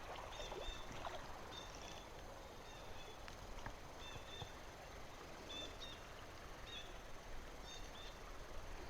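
Faint steady rush of river water, with short faint high chirps every second or so.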